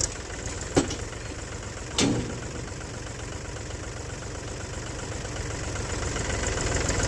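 Mahindra diesel tractor engine running at idle with a steady low throb, growing slightly louder near the end. Two sharp knocks cut through it, about a second and two seconds in, the second louder.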